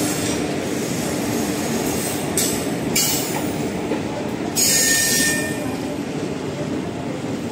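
Garib Rath Express passenger coaches rolling along a station platform as the train pulls in, with a steady rumble of wheels on rail. Two short bursts of high-pitched squeal come about two and a half and four and a half seconds in.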